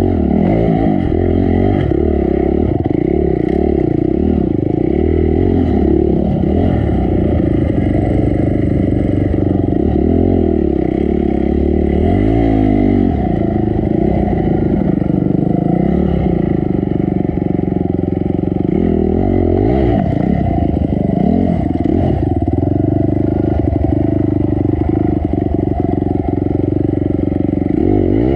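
Honda CRF250 dirt bike's single-cylinder four-stroke engine, revving up and down over and over as the throttle is worked on a rocky, rooty enduro trail.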